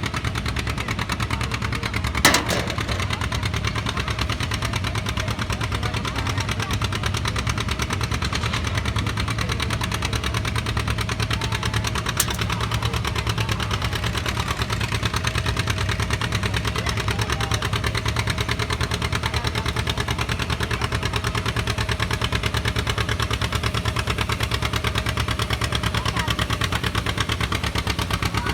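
Tractor engine running steadily at idle, with no revving. A sharp click about two seconds in and a fainter one near the middle.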